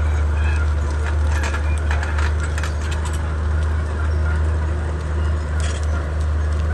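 Komatsu D31P crawler bulldozer's diesel engine running steadily under work, with scattered sharp clicks and knocks, a cluster of them a second or two in and another near the end.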